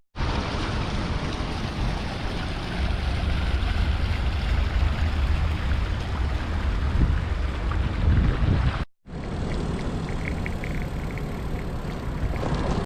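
Wind buffeting the microphone while riding a bicycle through city streets: a steady rushing noise with a heavy low rumble. It breaks off for a moment about nine seconds in.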